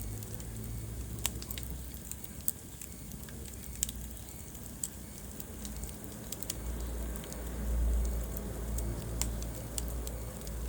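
Wood fire burning in a fireplace, crackling with scattered sharp pops over a low rumble that swells about seven to nine seconds in.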